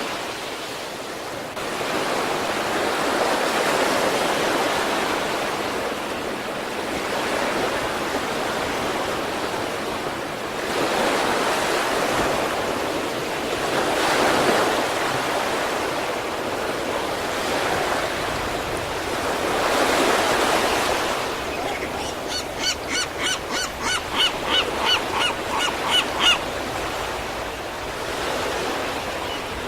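Sea surf on the East Sea shore: waves break and wash in, swelling and easing every few seconds. Near the end, a quick run of short pitched calls, about three a second, sounds over the surf for some four seconds, getting louder.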